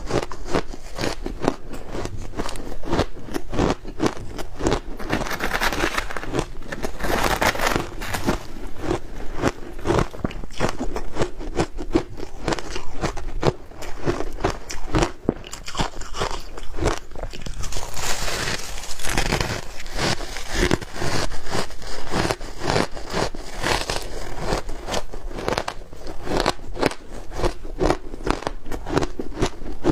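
Ice frozen with matcha green tea powder being bitten and chewed: a dense, continuous run of crunching and crackling, with louder, brighter spells about a third of the way in and again past the middle.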